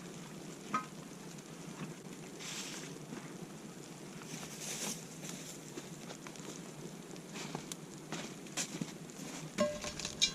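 Wood campfire burning, a steady low hiss with a few scattered sharp pops and crackles.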